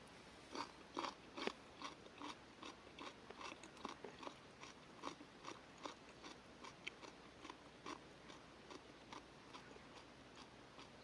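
Steady rhythmic crunching, about two to three crunches a second, louder for the first couple of seconds and then softer.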